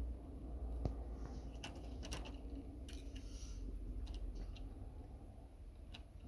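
Light plastic clicks and taps, irregular and a second or so apart, of toy railway wagons being handled and set onto model railway track, over a low steady hum.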